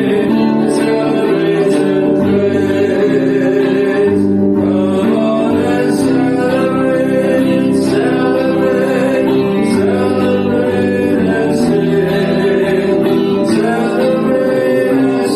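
Church worship song: singing over instrumental accompaniment, continuous and steady in level.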